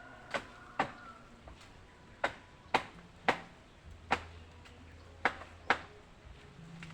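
Eight sharp blows struck in quick pairs, about half a second apart within each pair, during demolition of an old chicken coop: hammering or chopping at the structure.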